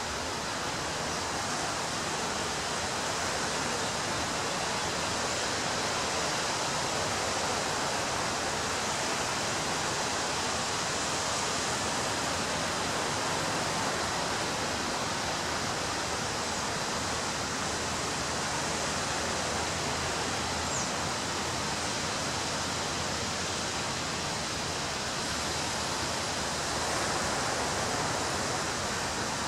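Ocean surf breaking on a beach, heard as a steady, unbroken wash of noise that swells slightly near the end.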